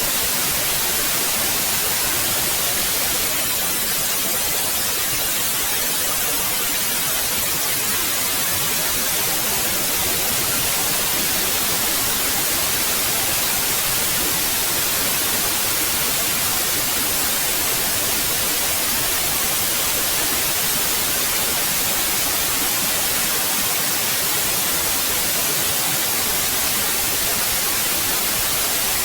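Steady synthetic white noise: an even, unchanging hiss weighted toward the high end.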